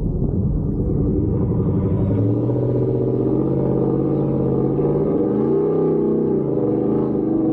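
Truck engine running under load, a low rumble at first, then from about two seconds in a clearer engine note whose pitch climbs and falls back as the throttle is worked.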